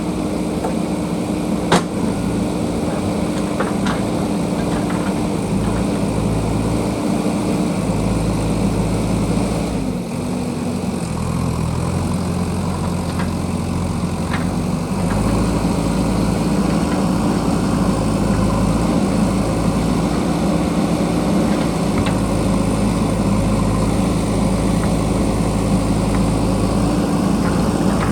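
JCB backhoe loader's diesel engine running steadily. Its note dips briefly about ten seconds in, then comes back and runs a little louder from about fifteen seconds, as the machine takes up load. There is one sharp knock about two seconds in.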